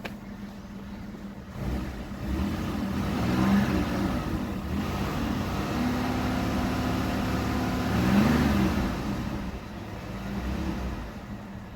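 1982 Buick Century's engine idling, then revved up and down a few times and held briefly at higher revs, before settling back to idle near the end.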